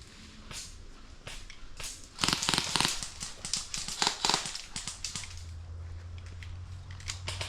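Airsoft gunfire: scattered sharp cracks, with two short, loud rapid bursts about two seconds in and again about four seconds in.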